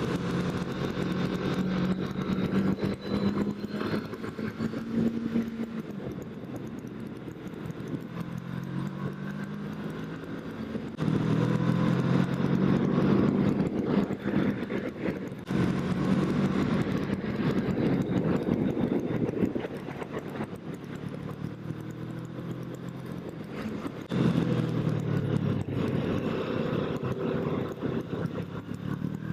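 Kawasaki Ninja 650 parallel-twin engine riding and accelerating, its pitch climbing through the revs and dropping at each shift. It gets louder on three harder pulls.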